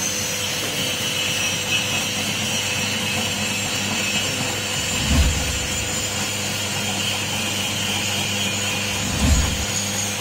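Motor-driven cassava chip slicing machine running steadily with a hum and hiss, with two dull low thumps about four seconds apart.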